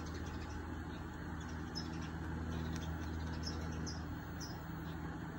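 A few brief, faint high bird chirps over a steady low hum.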